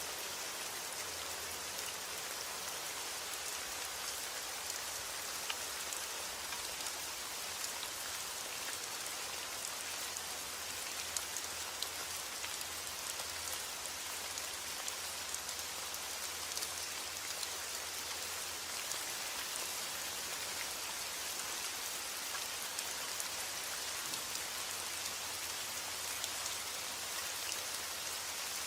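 Steady heavy rain falling on a roof, an even hiss with many small sharp drop taps scattered through it.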